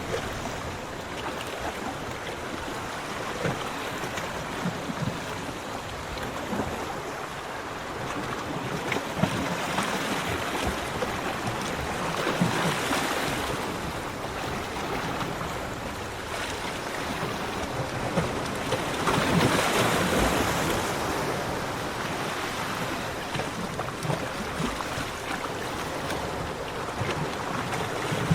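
Sea waves breaking and washing up a beach in a continuous hiss of surf. The surf swells louder about halfway through and again about two-thirds of the way through.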